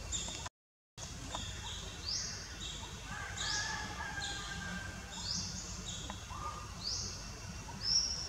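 Birds calling outdoors: a short rising chirp repeated about once a second, with a few lower notes from another bird, over a low steady background rumble. The sound cuts out completely for about half a second near the start.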